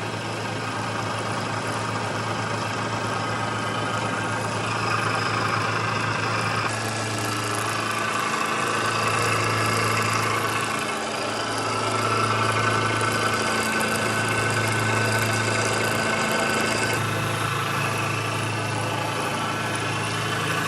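Metal lathe running with a steady motor hum, its sound brightening and gaining a second tone about four and seven seconds in.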